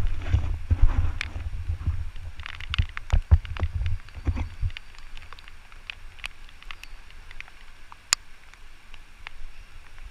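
Scattered knocks and clicks on a river raft, with rumbling wind on the microphone through the first half that then dies down.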